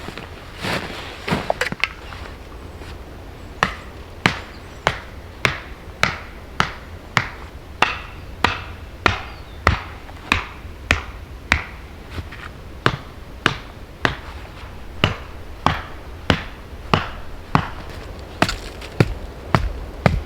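Axe chopping into wood with steady, evenly paced strokes, about one and a half a second, pausing briefly about midway before going on.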